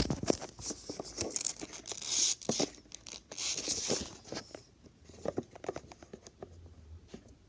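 Hands handling fidget toys and crinkly packaging: rustling with many small clicks, busy for the first four seconds or so, then thinning to a few quieter clicks.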